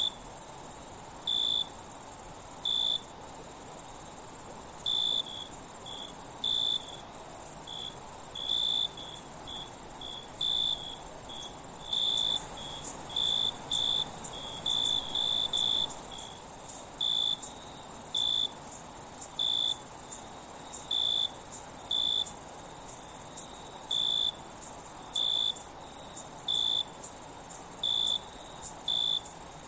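Night insect chorus: a steady high-pitched shrilling of many insects, with a cricket giving short chirps about one to two times a second, unevenly spaced.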